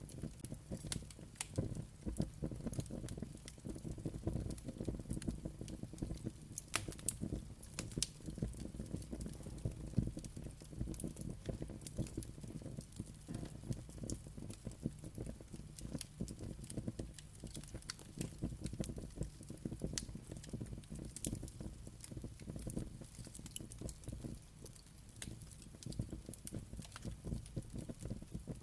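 Fire crackling steadily, with frequent sharp pops and snaps over a low rumble of flames.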